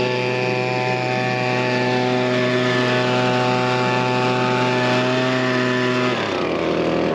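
Engine running at a steady speed, then winding down about six seconds in, its pitch falling.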